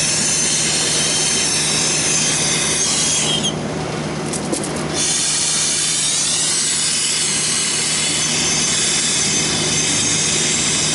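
Brazing torch flame hissing steadily on refrigeration copper tubing, with a brief dip in the hiss about three and a half seconds in.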